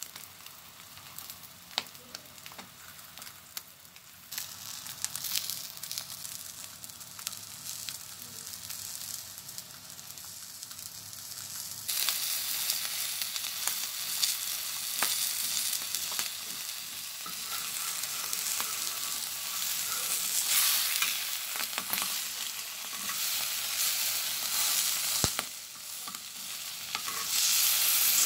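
Egg-filled capsicum ring sizzling on a hot flat iron griddle, with clicks and scrapes of a metal spatula. The sizzle jumps suddenly louder about twelve seconds in, as the spatula turns the piece over onto the griddle.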